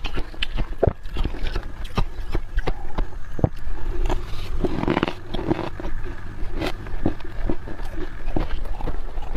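Freezer frost being crunched, dug out with a spoon and chewed: a close, irregular run of sharp crunches and scrapes, a few every second.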